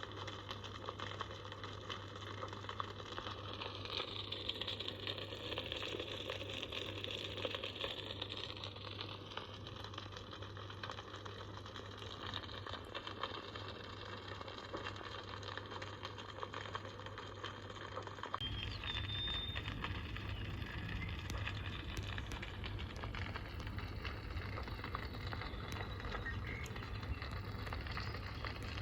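Crackling wood fire: a steady hiss with frequent small pops and crackles. About two-thirds of the way in, the background changes to a deeper low rumble, and a brief high chirp follows.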